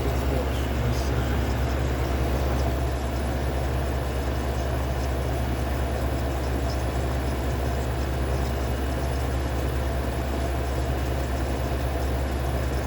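Amana dehumidifier running: a steady low hum from its compressor with the even rush of its fan.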